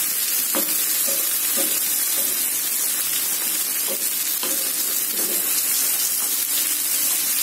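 Chopped onions and tomatoes sizzling in hot oil in a nonstick frying pan, stirred with a wooden spatula that scrapes across the pan now and then. The steady sizzle is tomatoes cooking down to soften.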